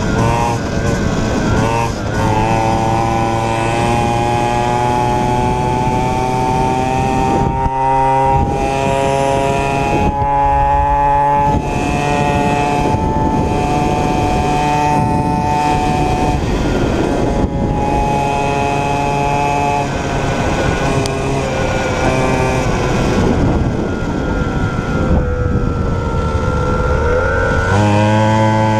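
Small 49cc two-stroke mini cross pit bike engine running under way, its pitch holding high and creeping up, dipping a few times as the throttle is eased and climbing again near the end. Wind rushes over the helmet-mounted microphone underneath.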